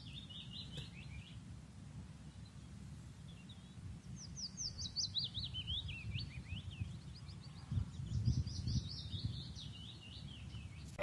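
Small birds singing in runs of quick chirps, each run sliding downward in pitch, three runs in all, over a faint low rumble of background noise.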